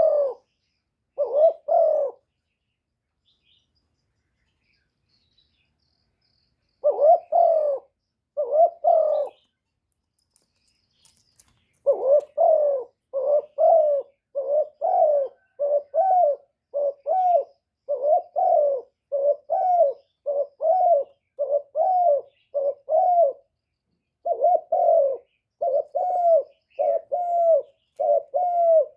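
Spotted dove cooing: short, low, paired coo notes, a few at first, then a pause of several seconds, then from about twelve seconds in a steady run of about one coo phrase a second.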